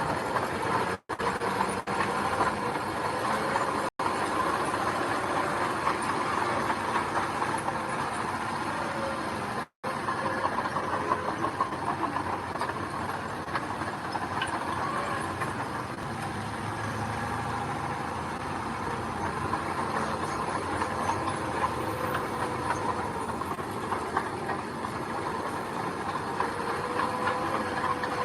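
Bulldozer engine running steadily with a dense mechanical clatter, cutting out for an instant three times.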